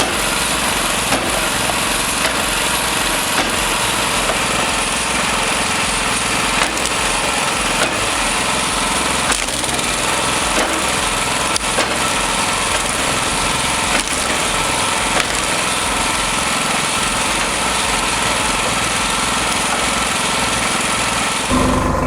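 Engine-driven log splitter running steadily under load, with occasional sharp clicks and cracks from the wood being split. Near the end the sound changes abruptly to a lower, steadier engine hum.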